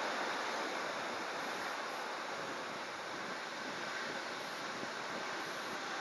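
Heavy typhoon surf and strong wind making a steady rushing noise, with wind buffeting the microphone.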